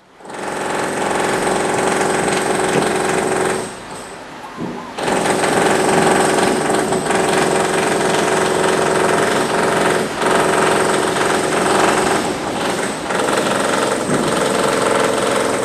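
Construction machinery next door pounding rapidly and continuously, with a break of about a second around four seconds in and a few short dips later on.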